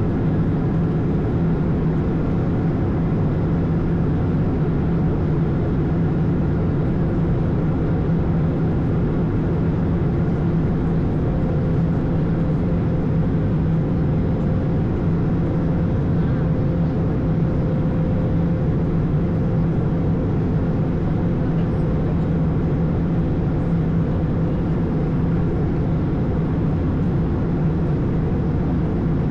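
Steady drone of an Airbus A220 in flight, heard from inside the aircraft: the Pratt & Whitney PW1500G geared turbofans and rushing airflow make an even rumbling hiss with a constant low hum.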